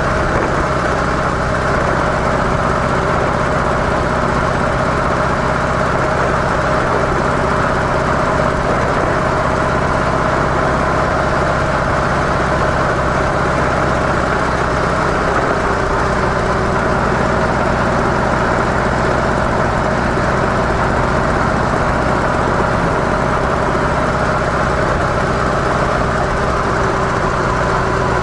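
Harley-Davidson CVO Softail's air-cooled V-twin engine running steadily through its stock muffler, with a slight change in tone about halfway through.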